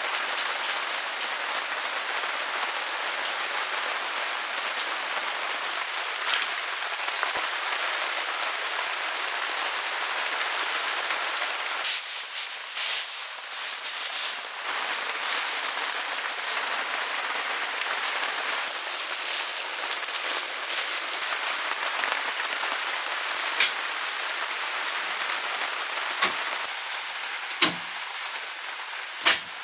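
Heavy rain falling steadily, with scattered sharper drips and taps; a few louder taps come near the end.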